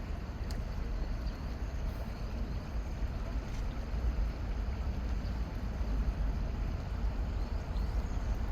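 Wind buffeting the microphone outdoors: a steady, fluttering low rumble over an even hiss.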